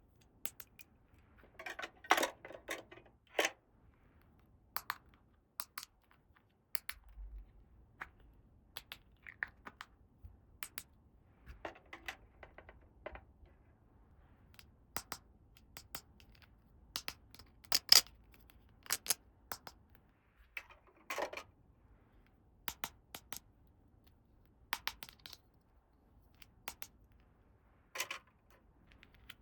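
Small plastic toy pieces clicking and tapping as they are handled and set down, spaced irregularly, with a few brief stretches of scraping and rustling; the sharpest click comes about eighteen seconds in.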